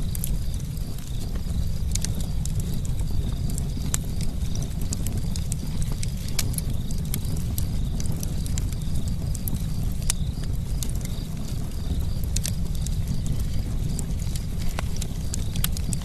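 Campfire burning: a steady low rumble with frequent sharp crackles and pops from the burning wood.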